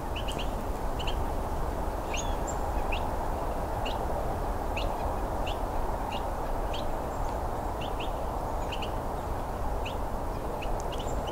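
Wild songbirds giving short, sharp call notes, irregularly about two a second, over a steady background hum.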